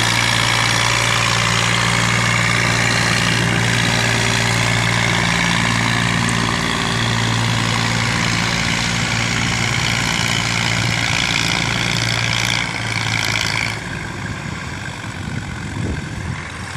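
Massey Ferguson 240 tractor's three-cylinder diesel engine running steadily under a heavy load. About 14 seconds in, the sound drops a little and turns rougher and less even.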